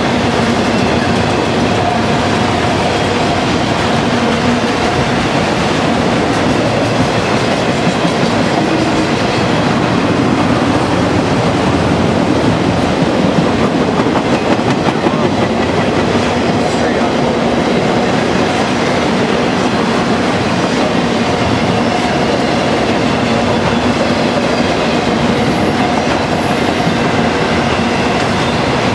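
Freight train of autorack cars rolling past close by: the steady, loud noise of steel wheels running over the rails.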